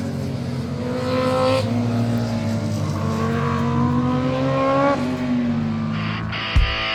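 Motorcycle engine pulling under acceleration: its pitch climbs steadily and drops at upshifts about one and a half and five seconds in.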